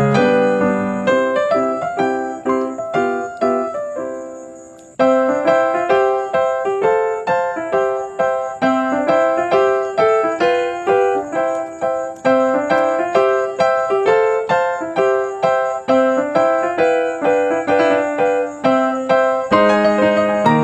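Background piano music: a bouncy melody of quick, evenly struck notes that fades out about four seconds in and starts up again a second later.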